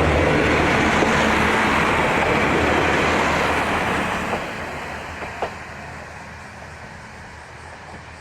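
Diesel railcar passing over a level crossing and running away, its wheel and engine noise loud at first, then fading from about four seconds in. There is a single sharp click about five and a half seconds in.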